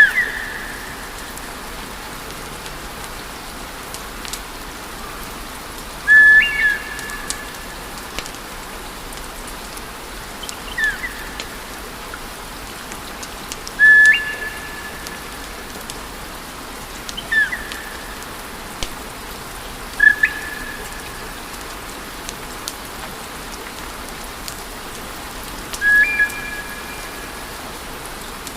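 Wood fire crackling and hissing in a fireplace, with short high whistling tones breaking through every few seconds, seven in all.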